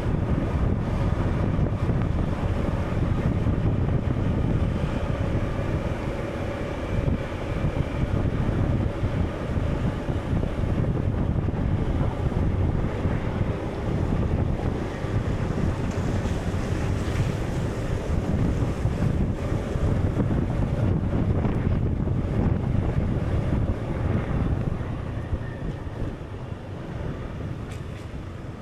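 Steady rushing wind and surging water, like a storm at sea, with a faint drone under it; it fades near the end.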